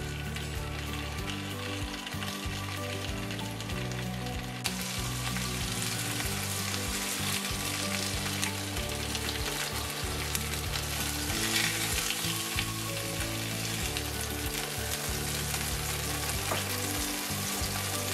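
Artichoke hearts frying in hot olive oil in a pan: a steady dense sizzle that grows louder about five seconds in.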